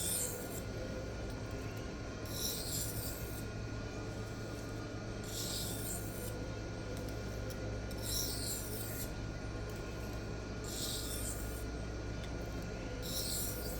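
Knife edge drawn lightly across a Sharpal diamond sharpening plate in single slow strokes, a short gritty hiss about every two and a half to three seconds, six in all. These are alternating light deburring passes to remove burr fragments from the edge.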